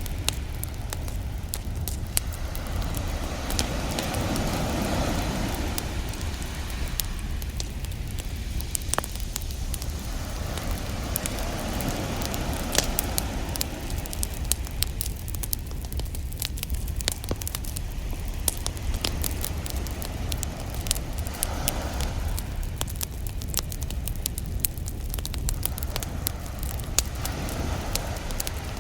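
Beach campfire crackling, with sharp pops scattered throughout, over ocean waves that swell and wash in every several seconds and a steady low rumble beneath.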